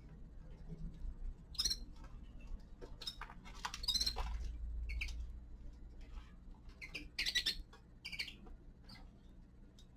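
Small caged finches giving short chirps and squeaky calls in scattered bursts with gaps between, over a steady low hum.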